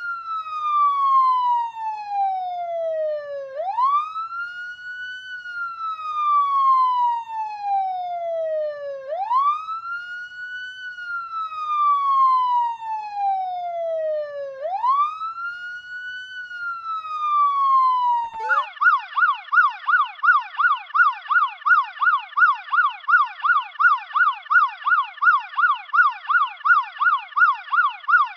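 Electronic police car siren sounding a slow wail, each cycle rising quickly and falling slowly over about five and a half seconds. About 18 seconds in it switches to a fast yelp of about three sweeps a second.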